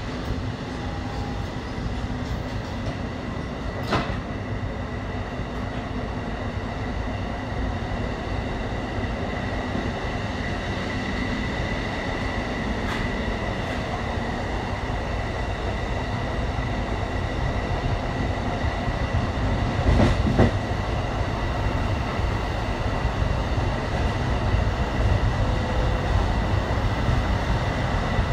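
Amtrak passenger train rolling over the rails, heard from inside the rear car: a steady rumble of wheels on track that grows slowly louder as the train gathers speed, with a sharp click about four seconds in, a louder knock around twenty seconds in, and a thin steady whine through the second half.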